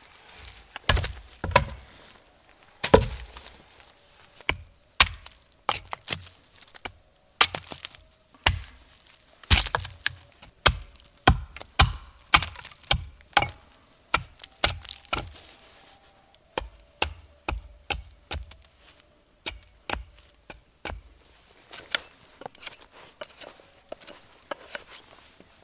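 Repeated sharp blows of a tool striking wood, chopping, roughly one a second at an uneven pace with some quicker strokes.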